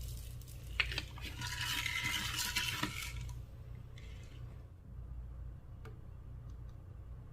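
Slime being stirred and squished in a container: a sharp click, then about two seconds of wet, crackly clicking, then a few soft ticks.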